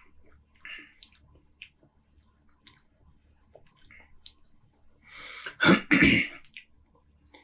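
Faint mouth and swallowing clicks as a man drinks beer, then a loud throat clearing with two quick pushes about five and a half seconds in.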